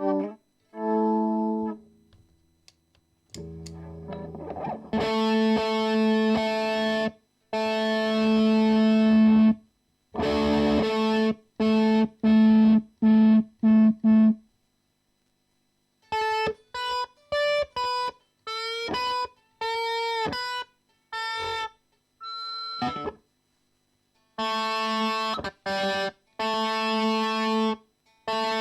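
Electric guitar through a distorted pedal and amp, playing sustained chords and short clipped notes with silences between them and a few string bends in the middle.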